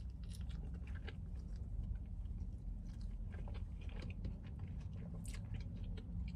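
A man biting into and chewing a chicken salad wrap with lettuce and tomato: irregular soft crunching and wet mouth clicks, over a steady low hum.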